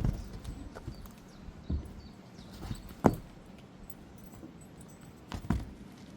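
Footsteps: a few separate, sharp steps, one to two seconds apart, with two close together near the end.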